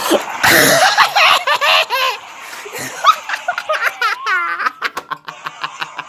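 A man laughing hard and uncontrollably. It starts with a loud outburst, goes into high, wavering laughs, then breaks into many quick, short gasping laughs in the second half.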